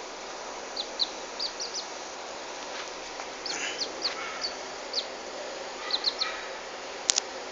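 Small bird giving short, high chirps in scattered runs over a steady background hiss, with two sharp clicks near the end.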